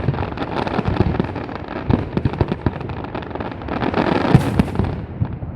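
Aerial fireworks going off: a dense, rapid crackle of many small pops and bangs, with a brief hiss about four seconds in.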